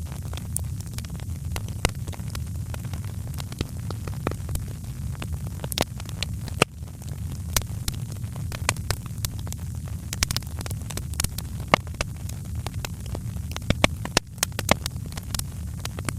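Wood fire crackling, with frequent irregular sharp pops and snaps, a few louder ones, over a low steady rumble.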